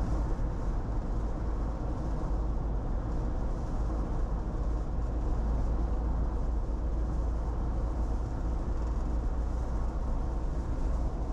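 Steady road noise inside a moving car: an even, unbroken low rumble of tyres and engine.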